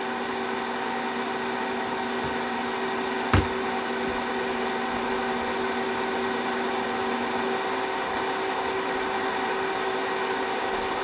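Cooling fan of an SRNE IPC 12 V 3 kW low-frequency inverter running steadily with a hum and several held tones, the loads switched off after a max-load test. One of the lower tones drops out about two-thirds of the way through, and there is a single click about a third in.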